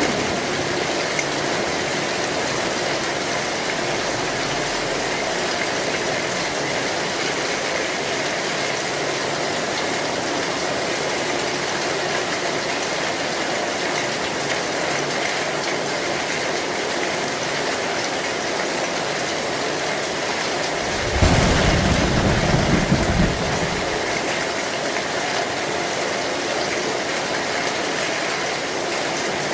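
Heavy rain falling steadily on an old zinc (tin) roof. About two-thirds of the way in, a low roll of thunder lasts about three seconds and is the loudest sound.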